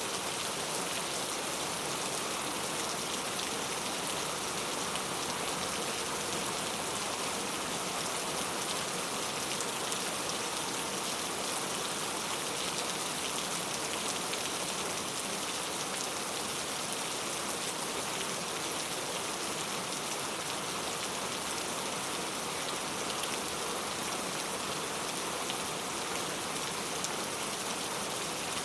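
Heavy rain falling steadily, a dense even hiss of drops striking hard surfaces with fine ticks of individual drops.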